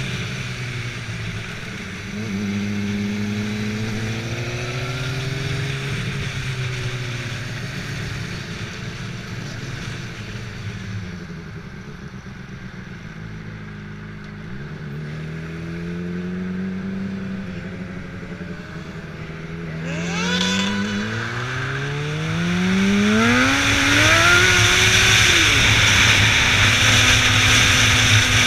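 Motorcycle engine riding through the gears, its pitch climbing and dropping several times as it accelerates and shifts. About 23 seconds in it revs up to its loudest and holds a steady high speed with a strong hiss over it.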